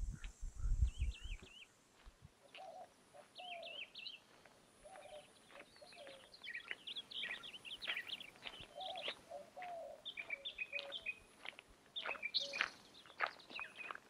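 Wild birds singing and chirping in quick, repeated phrases, with some higher trills and some lower warbles. There is a brief low rumble in the first second and a half. Toward the end come crisp footsteps on a dirt trail.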